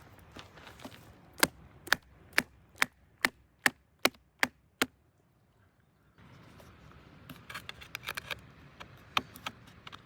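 Can of baked beans being knocked open without a can opener: about nine sharp strikes, roughly two a second, then after a pause lighter scraping and clicking as the lid is worked open.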